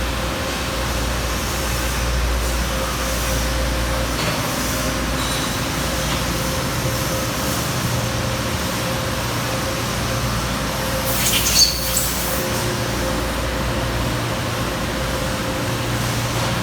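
Amada Pega 357 CNC turret punch running, a steady mechanical drone with a constant hum and no regular punching strokes. A brief sharp hissing burst comes about eleven and a half seconds in.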